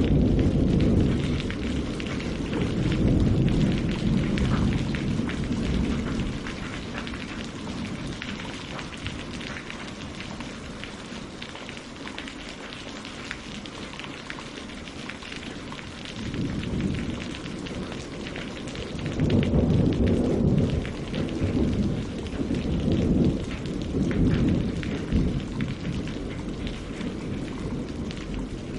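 Steady rain on water and leaves, with deep rolling rumbles of thunder that swell at the start and again in the second half, dying away in between.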